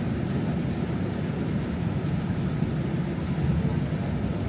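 Steady low rumble of a passenger boat's engine running at a constant pace.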